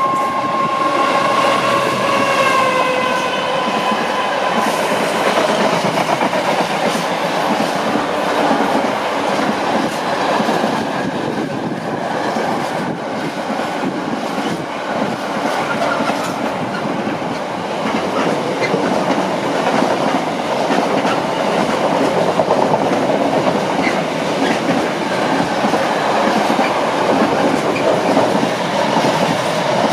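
A train running past close by, its steady running noise lasting throughout. A whine falls in pitch over the first few seconds.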